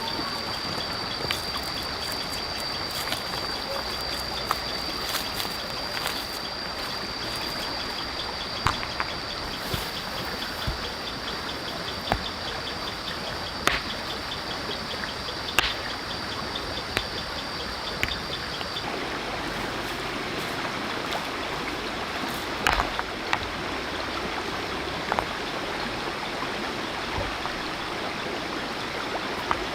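Steady rush of flowing stream water, with scattered sharp knocks and a thin, steady high-pitched whine that stops about two-thirds of the way through.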